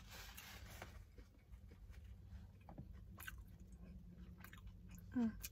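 A person chewing a mouthful of sauce-covered turkey burger, faint soft chewing and mouth clicks. Near the end there is a short falling hum of voice.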